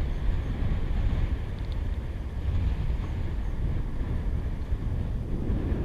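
Wind buffeting the microphone: a steady, blustery low rumble from a 15 to 20 knot breeze.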